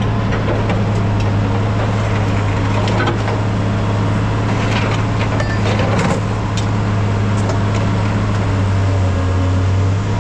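A steady low engine drone, with light rattles and clicks scattered over it.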